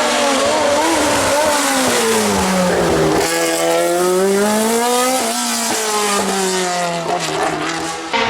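Race car engines at full load on a hill-climb course: one engine's pitch drops steadily as it lifts off, then about three seconds in the sound cuts abruptly to another car whose engine rises and falls as it accelerates and backs off.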